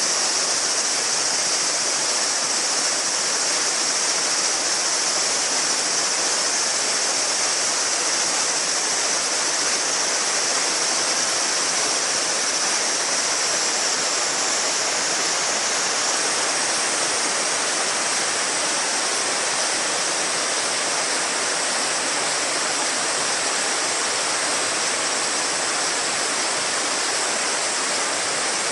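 River water babbling steadily, with a dense chorus of summer cicadas shrilling high over it; the cicada sound changes a little past halfway.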